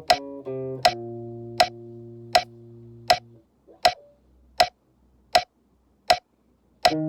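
Guitar playing a few notes of a harmonic minor scale and letting the last low note ring out and fade, over a metronome ticking steadily about every three-quarters of a second. For about three seconds only the metronome clicks are heard, then the next scale run starts near the end.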